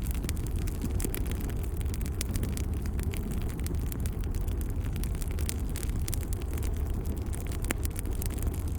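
Log fire crackling, with frequent small snaps and pops over a steady low rumble.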